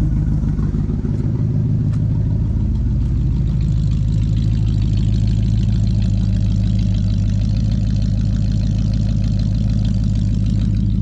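Ford FE big-block V8 in a 1967 Ford F100 running steadily at idle on its first run after more than 20 years of sitting, with an exhaust leak.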